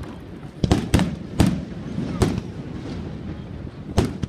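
Fireworks shells bursting, five sharp bangs at uneven intervals, the last after a gap of almost two seconds, each with a short echo.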